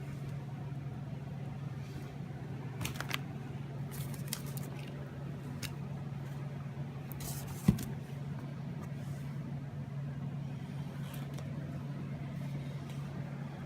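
A steady low hum with scattered light clicks and rustles, and one sharp knock about halfway through.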